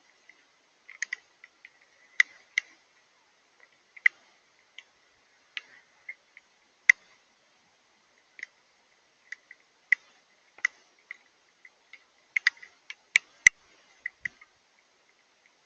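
Water drops falling onto a hard surface, making irregular sharp ticks with no steady rhythm, spaced from about a third of a second to a second and a half apart; a quick cluster of louder ticks comes near the end.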